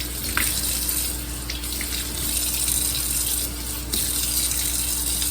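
Tap water running into a sink, a steady rushing stream that gets brighter and duller a few times, with a few small splashes.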